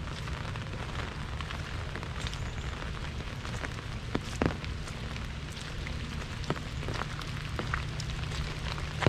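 Rain falling on an umbrella: a steady hiss with many separate drop hits, one louder hit about four and a half seconds in.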